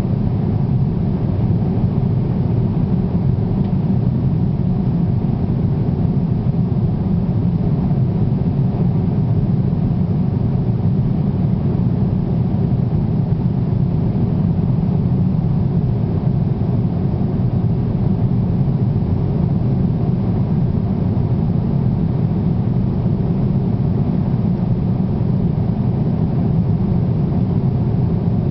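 Steady low rumble of an airliner's cabin noise in flight, engine and airflow drone holding constant without change.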